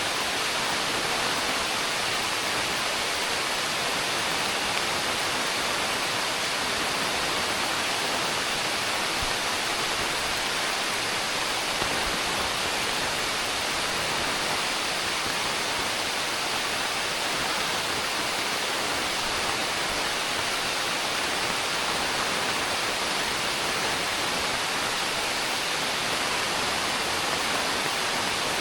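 Heavy rain pouring down as a dense, steady hiss that does not let up.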